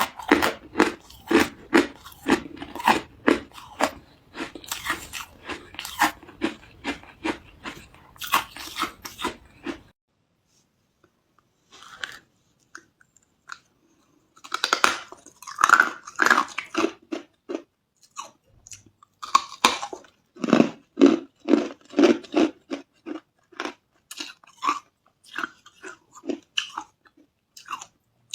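Hard carbonated ice being bitten and chewed, a run of sharp crunches about two or three a second. The chewing stops for about four seconds a third of the way in, then resumes.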